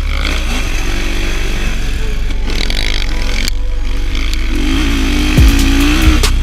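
Motocross dirt bike engine revving up and down as it is ridden around the track. About five seconds in, deep thumps of a background beat come in.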